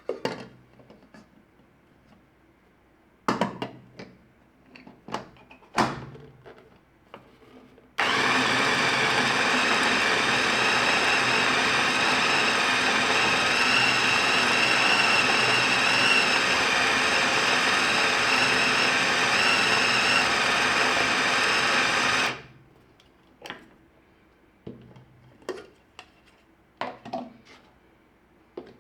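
A small electric kitchen appliance motor runs steadily for about fourteen seconds and then cuts off, with light knocks of utensils handled before and after.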